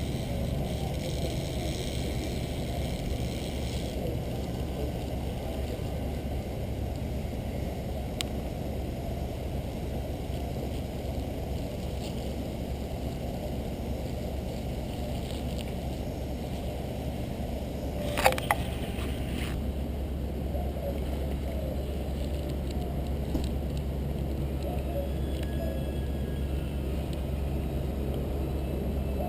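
Steady, muffled low rumble of outdoor background noise, with a quick pair of sharp clicks about two-thirds of the way through.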